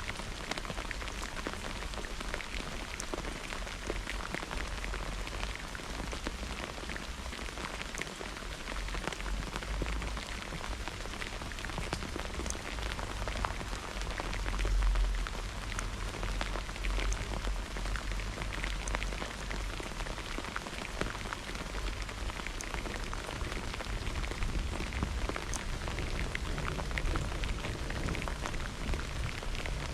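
Steady rain falling during a thunderstorm, an even hiss with many separate drop hits. A low rumble underneath swells briefly about halfway through.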